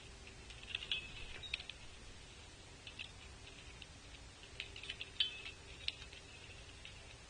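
Light, quick clicks and taps in two clusters, one about a second in and one around five seconds in, typical of a Red-bellied Woodpecker working seed on a platform feeder.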